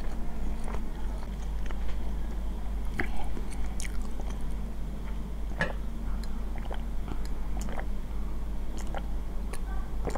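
Close-miked chewing with scattered short mouth clicks, then gulps of a drink from a glass in the second half, over a steady low hum.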